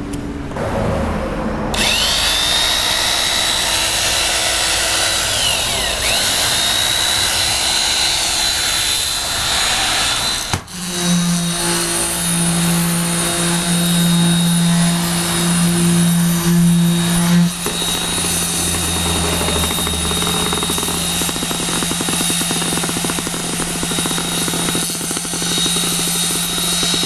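Handheld electric concrete vibrator (480 W) running. About two seconds in, its motor whines up and then holds steady. After a brief break near the middle, it carries on with a steady low hum.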